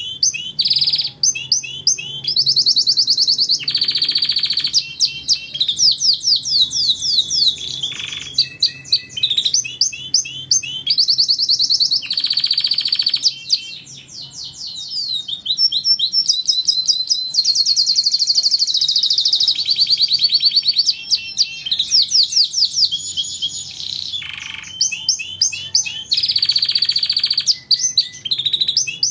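Domestic canary singing continuously: long runs of rapid trills and repeated chirping phrases, high-pitched, with only brief pauses between tours.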